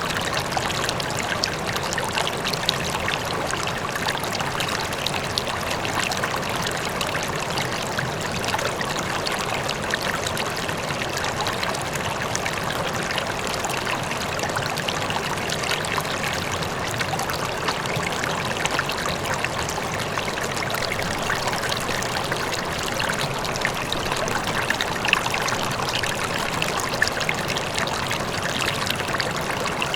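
River water flowing steadily over stones, a continuous burbling rush with a faint waterfall in the distance.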